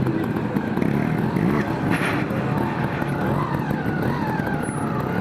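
Dirt bike engines running and revving, the pitch rising and falling several times.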